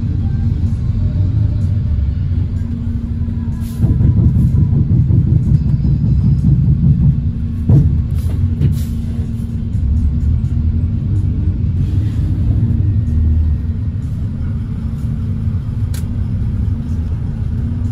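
Cabin of a moving provincial bus: steady low rumble of engine and road noise with a constant hum. It grows louder about four seconds in for a few seconds, and there are a few sharp knocks and rattles.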